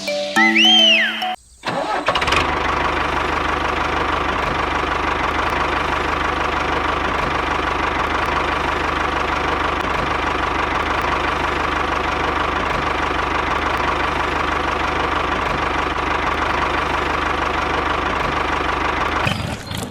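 A short musical jingle with rising chime glides, then after a brief pause an engine starts and runs steadily with an even hum. It cuts off just before the end.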